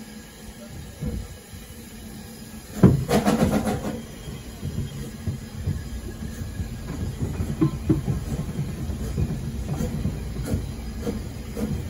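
Narrow-gauge train running on the line: a sudden loud clatter about three seconds in, then a steady rumble with frequent rail clicks and knocks.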